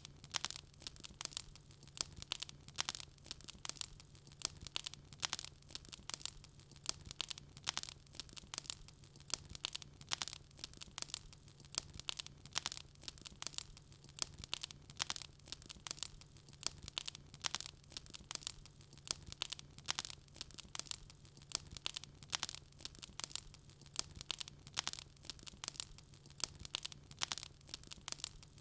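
Wood fire crackling steadily, with rapid, irregular sharp pops and snaps, several each second.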